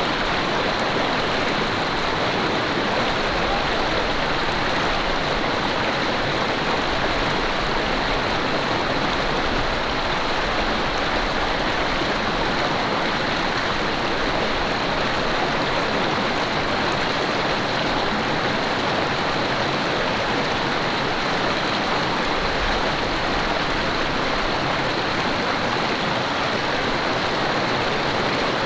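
Mountain stream rushing steadily over rocks, a constant even wash of flowing water.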